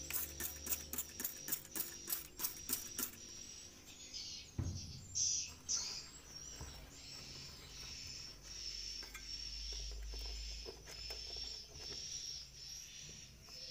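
Swiftlet calls: short high chirps repeating about once a second, after a quick run of about a dozen sharp clicks over the first three seconds.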